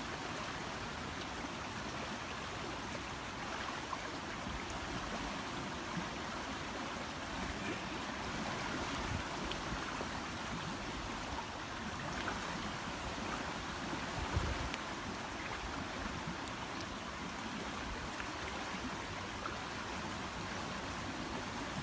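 Steady rushing of a river running high in flood, with a few faint clicks.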